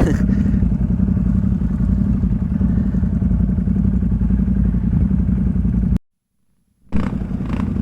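ATV engine running steadily while riding. The sound drops out to complete silence for just under a second about six seconds in, then returns.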